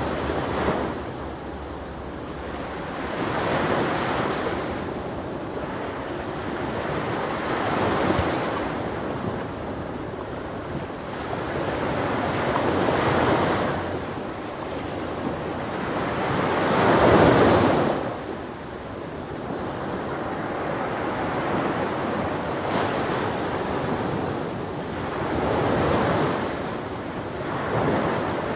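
Ocean surf breaking on a beach, the rush of each wave swelling and fading every four to five seconds, with one wave much louder near the middle.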